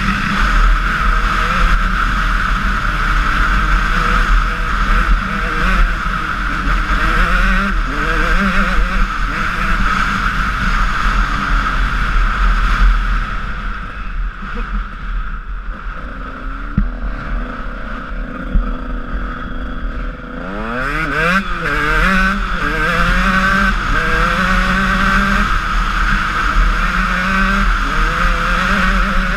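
Honda CR125 two-stroke motorcycle engine under way, its revs rising and falling as it pulls and shifts. It eases off for several seconds around the middle, then revs up sharply with a rising pitch about two-thirds of the way through and carries on accelerating and backing off.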